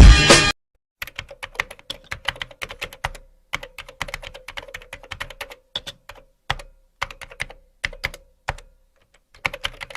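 Computer keyboard typing: quick, irregular key clicks in runs with short pauses. Loud music cuts off suddenly just before the typing starts.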